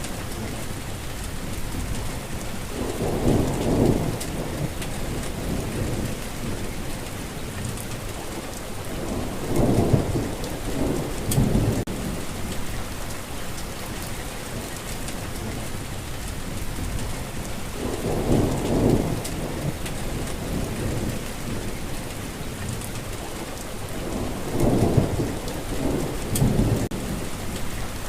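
Steady heavy rainfall with four low rolls of thunder swelling up and dying away, each lasting a second or two.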